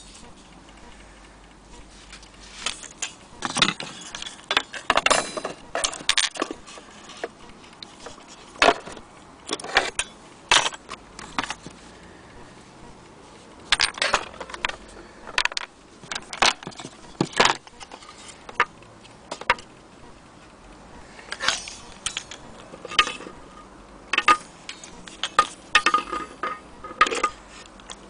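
Irregular clicks, knocks and small metallic rattles from an old HAC mantle clock being handled.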